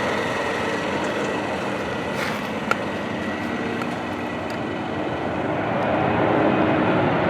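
Jet airliner engines running steadily, with a faint high whine over the rush; a brief tick about two and a half seconds in.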